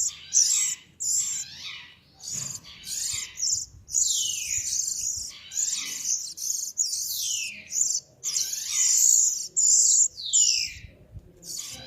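A small songbird singing a fast, unbroken song of high chirps, with repeated phrases that sweep down in pitch.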